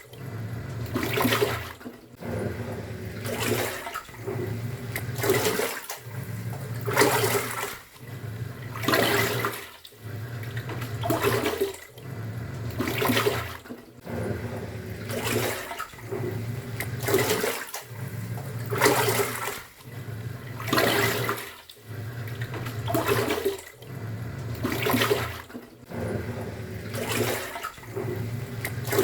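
Top-loading pulsator washing machine agitating a load: the motor hums and the water surges and sloshes, stopping briefly and reversing about every two seconds.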